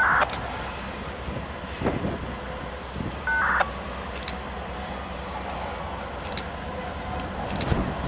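CSX diesel-electric locomotive pulling freight cars slowly around a curve. Its engine gives a steady low rumble, with a few light clicks from the wheels and track. Two short, loud higher-pitched blips sound, one at the start and another about three seconds later.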